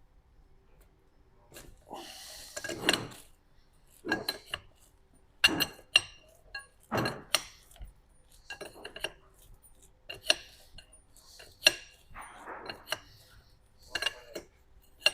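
A steel wrench clinking and scraping against the metal parts of an electric unicycle's shock absorber while a nut is worked on: about a dozen sharp, ringing metallic clinks at irregular intervals, with softer rubbing between them.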